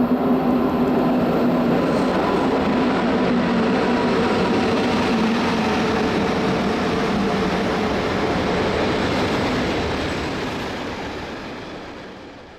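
A train running on the Semmering railway: a loud steady rumble of wheels on rails with a humming tone, fading away over the last couple of seconds.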